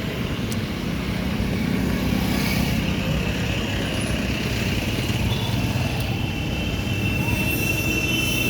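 A vehicle engine running steadily, with road traffic noise around it.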